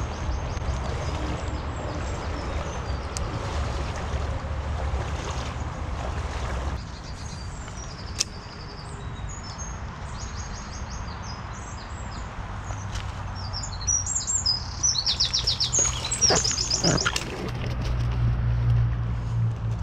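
Songbird singing a series of quick, high chirps and trills, loudest about fifteen to seventeen seconds in, over a steady rushing background with a low rumble.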